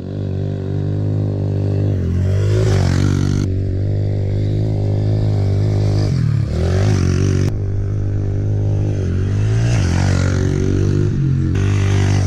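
Mini moto engine held at high revs, the throttle chopped and reopened about every three to four seconds so the pitch dips and climbs back each time.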